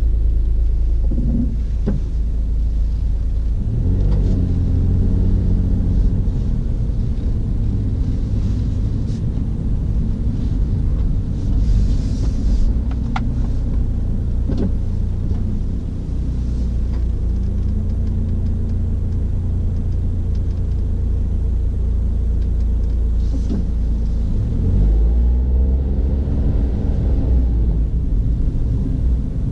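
Car engine and road rumble heard from inside the moving car, a steady low rumble. The engine note climbs as the car accelerates about 4 seconds in, again around the middle and once more near the end.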